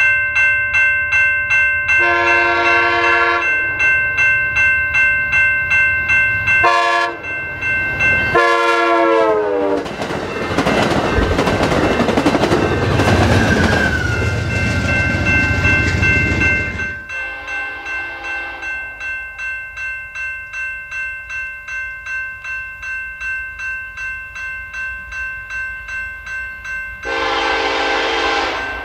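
An Amtrak passenger train's air horn sounds three blasts as it approaches. The last blast drops in pitch as the train passes at speed with a loud rush of wheels and engine. Then a BNSF freight train's horn sounds two blasts as it approaches. Under both trains a steady ringing pulses about twice a second.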